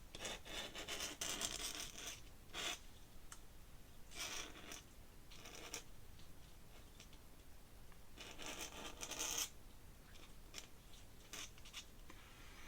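Ink pen nib scratching on paper in short bursts of strokes, the longest in the first couple of seconds and again around eight to nine seconds in.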